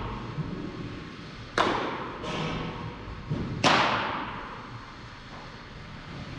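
Sharp cracks of a baseball striking, three in a few seconds, the last the loudest, each ringing out with echo from a large indoor hall.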